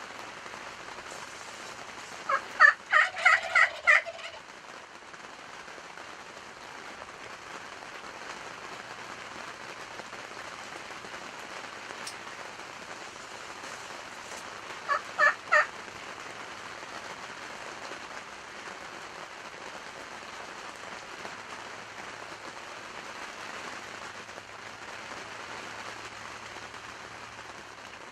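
Wild turkey toms gobbling: a rapid rattling gobble about two seconds in and a shorter one about halfway through, over the steady hiss of heavy rain.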